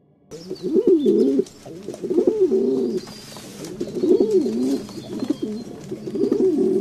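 Domestic pigeon cooing: four rolling coos, about two seconds apart.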